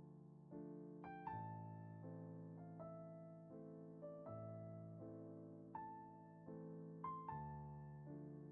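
Quiet, slow solo piano music: soft chords and a gentle melody, each note struck and left to fade.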